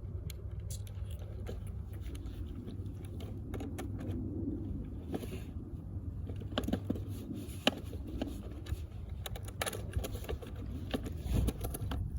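Small metal clicks and scrapes of skateboard hardware being handled and tightened with a skate tool: washers, axle nuts and wheels going onto the trucks. A steady low wind rumble sits on the microphone underneath.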